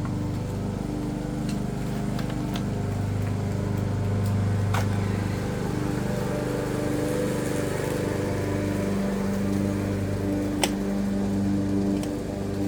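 Petrol lawn mower engine running steadily, its pitch shifting a little now and then, with a few sharp clicks on top.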